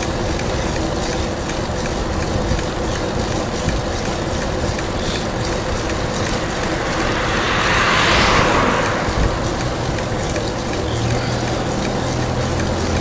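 Road traffic: a car passes about eight seconds in, its tyre noise swelling and fading over a steady background rumble. Near the end a vehicle engine's low hum comes in.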